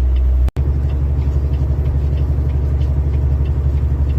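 Semi truck's engine and drivetrain rumbling steadily, heard inside the cab while pulling uphill under load. The sound cuts out for an instant about half a second in.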